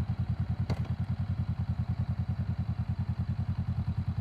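2023 Honda Rebel motorcycle engine idling with a steady, even pulse, and a single sharp click about a second in.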